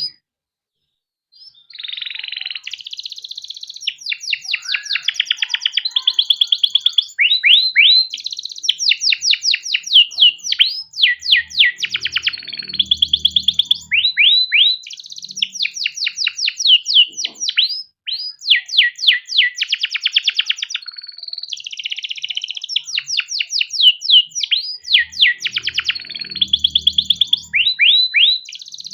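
Canary singing a long, nearly unbroken song of fast trills and rapid rolls, high-pitched, starting after a silence of about a second and a half.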